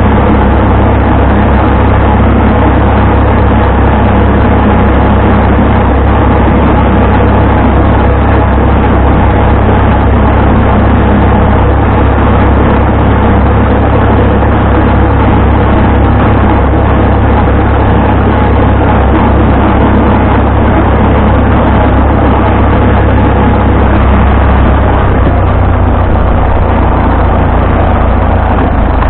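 Vintage farm tractor engine running steadily under load, loud and low-pitched.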